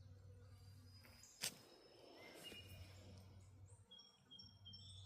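Quiet rural ambience with faint, short, high bird chirps here and there, coming more often near the end, and a single sharp click about a second and a half in.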